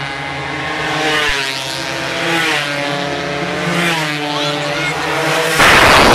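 Racing motorcycle engines revving and passing, their pitch rising and falling again and again. A loud rush of noise comes near the end.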